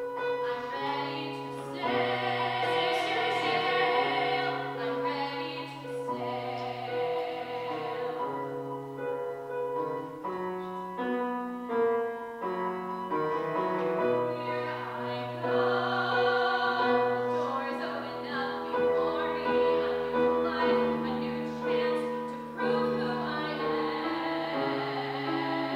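Musical-theatre singing with piano accompaniment, the voice holding long notes with vibrato over sustained piano chords.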